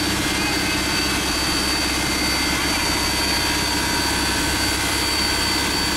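Two-truck Shay geared steam locomotive standing, giving off a steady hiss with a constant high-pitched whine.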